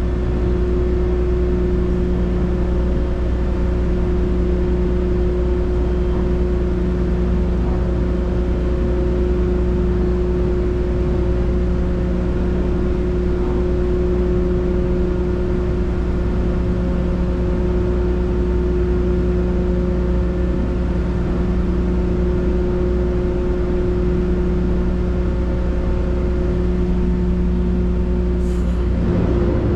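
Ferry's diesel engine droning steadily with a deep rumble and a constant layered hum, heard aboard while under way.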